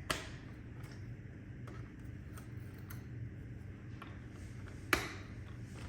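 New plastic side brushes being handled and pressed onto a Deebot robot vacuum: a few small plastic clicks and ticks, the sharpest just after the start and another about five seconds in, over a faint low hum.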